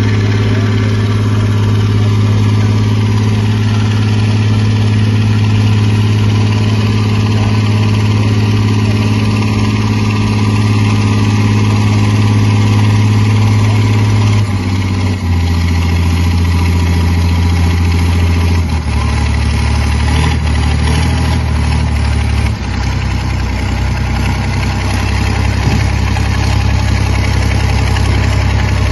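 Hürlimann H-6170T tractor's diesel engine running at steady high revs, then its pitch dropping in three steps over the second half.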